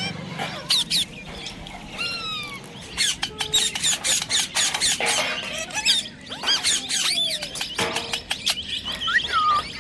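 Baby parrot chirping and squawking over and over: rapid, high calls that glide up and down in pitch, with sharp clicky notes among them.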